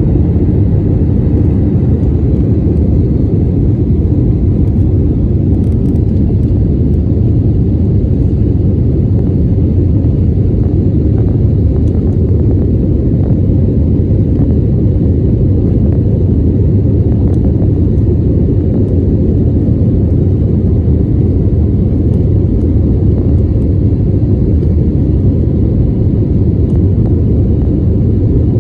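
Jet airliner's engines and airflow heard from inside the cabin: a loud, steady, low rumble with no change in pitch or level.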